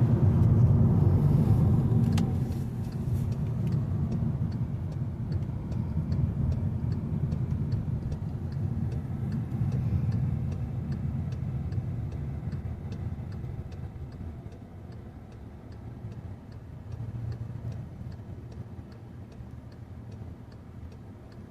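The freshly rebuilt 1.8-litre turbocharged four-cylinder of a 2014 Volkswagen Jetta running on the road during break-in, heard from inside the car. It pulls loudest at first, then eases off and gets quieter. A sharp click comes about two seconds in, and a light ticking about twice a second runs through the rest.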